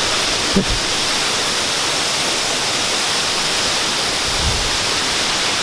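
The steady, even rush of a tall waterfall plunging into its pool, heard at close range.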